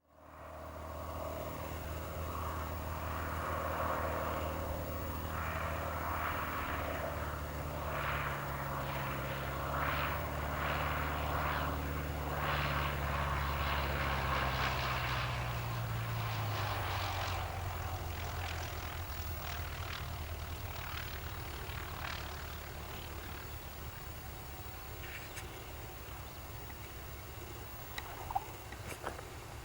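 Cessna 150's four-cylinder propeller engine running steadily. Its note drops in pitch around the middle, then slowly fades.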